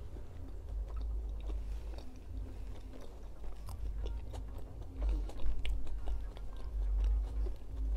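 A person chewing a soft chicken tikka sandwich close to the microphone: irregular small wet mouth clicks over a low rumble, a little louder about five seconds in.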